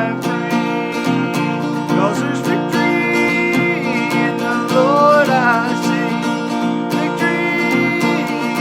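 Acoustic guitar strumming a country gospel song, with a voice singing long held notes over it.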